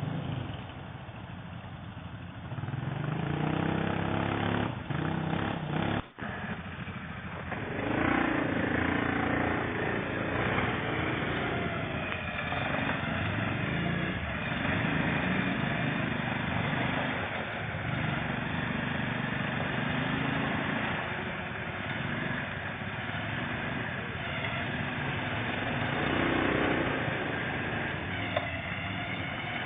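Quad bike (ATV) engine running and revving, its pitch rising and falling as it works through rough ground, with a brief drop in sound about six seconds in.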